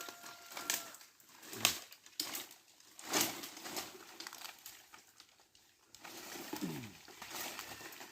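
Dry cashew-wood sticks being handled and broken, with a string of sharp cracks and snaps and rustling of dry branches.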